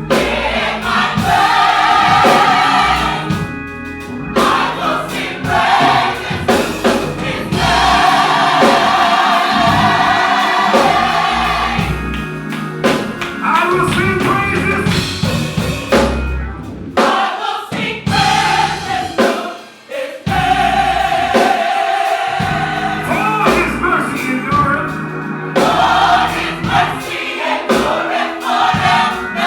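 Gospel choir singing long held chords over instrumental backing with drums. The sound dips briefly about two-thirds of the way through, then the choir comes back in.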